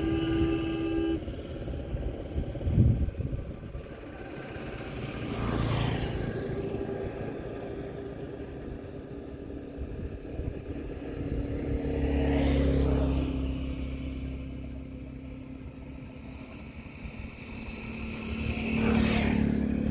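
Motor vehicles passing by one after another, each one swelling up and fading away, three times in all. A steady, horn-like held tone cuts off about a second in.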